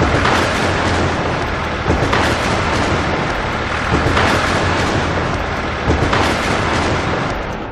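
Loud, dense rumbling noise that swells about every two seconds.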